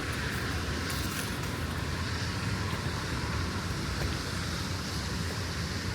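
Steady outdoor city-park ambience: an even low rumble with a noisy hiss over it, unchanging throughout.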